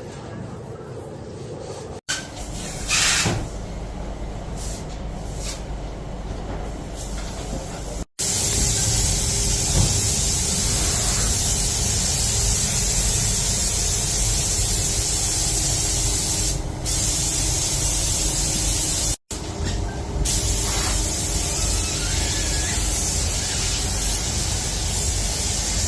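A loud, steady hissing spray of air under pressure, coming in abruptly about eight seconds in after a quieter stretch, and cut off sharply for a moment about nineteen seconds in.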